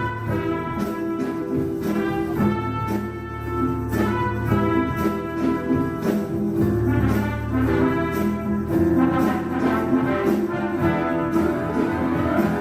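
Symphony orchestra playing sustained chords with brass prominent, over a steady beat.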